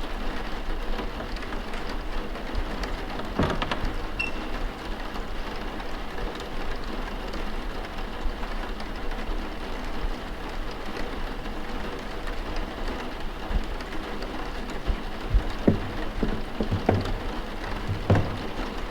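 Steady rain falling, heard as an even hiss with a faint low hum beneath it. A few short, soft knocks come about three seconds in and again in a cluster near the end.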